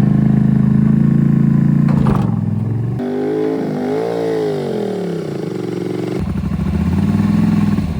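Off-road machine's big-bore CW Motorsports 1000 engine running at a steady idle. In the middle it rises in pitch and falls back once, a single rev, then settles to idle again.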